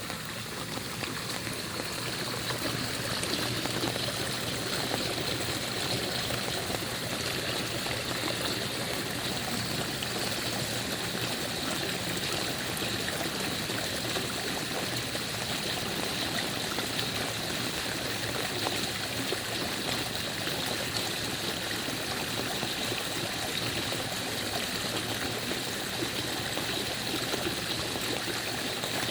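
Floodwater running steadily through a cleared drain, a continuous rush of flowing water that builds a little over the first few seconds and then holds even.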